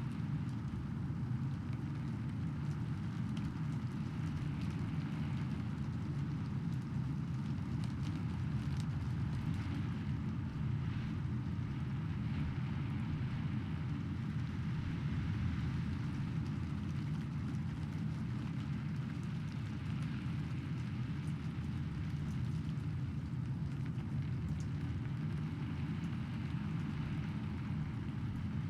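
Steady rain with a constant low rumble beneath it; no separate thunderclap stands out.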